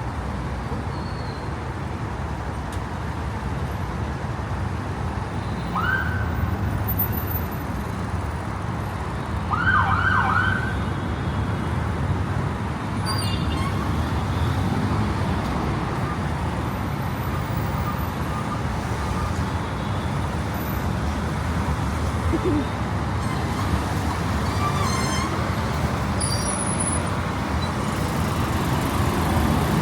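Steady city traffic noise with a low rumble. Brief falling tones sound about 6 seconds in and again near 10 seconds, the later one doubled.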